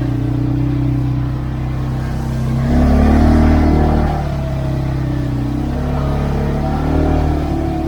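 CFMoto 520L's engine running while riding, with a steady note that swells louder for about a second and a half from about three seconds in as the throttle opens, then settles back.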